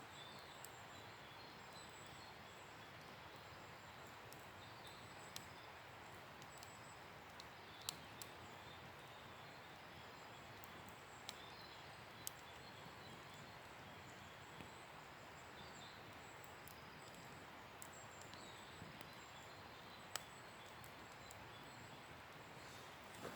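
Wood bonfire burning with a soft steady hiss and an occasional sharp crackle or pop, about half a dozen over twenty seconds.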